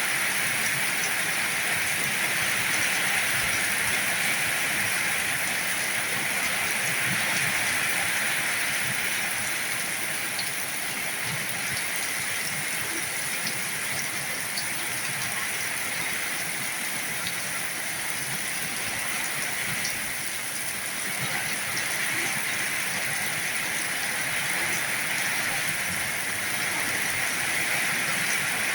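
Heavy rain falling steadily, a dense even hiss with scattered small drop ticks.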